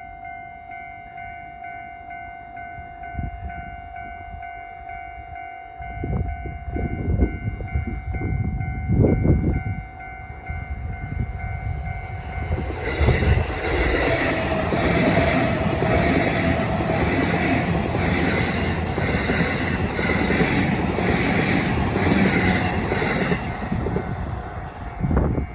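Japanese level-crossing alarm ringing steadily throughout. From about halfway, a JR East E233 series 7000 electric train rolls past for some ten seconds, its wheels clattering in a steady rhythm of about two beats a second. Several loud low rumbles come before the train arrives, and a single sharp thump comes near the end.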